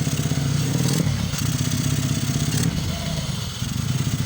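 Motorcycle engine running steadily while being ridden, its pulsing note easing off briefly a little before the end, with road and wind noise.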